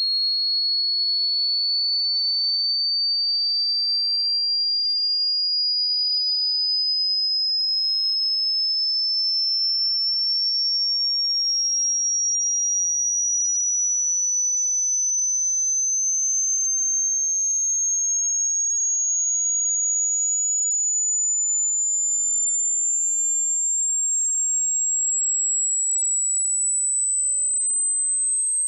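A single pure, very high-pitched electronic tone at an even loudness, rising slowly and steadily in pitch by about an octave.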